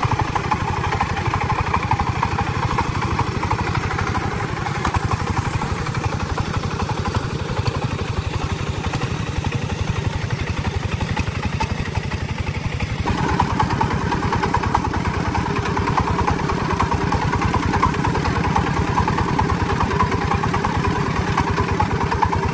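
Truck engine running steadily with a rapid, even chug; its tone changes about thirteen seconds in.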